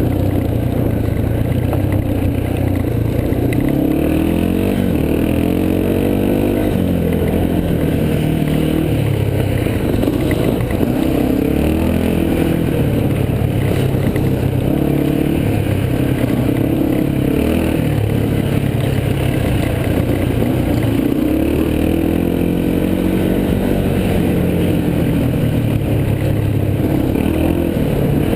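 Yamaha TT-R230 dirt bike's single-cylinder four-stroke engine running under way, its pitch rising and falling again and again as the throttle is opened and closed.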